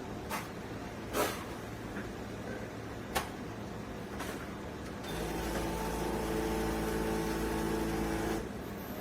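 A few sharp clicks and knocks, then the CHULUX 20-bar espresso machine's pump hums steadily for about three seconds while brewing a shot, and stops abruptly.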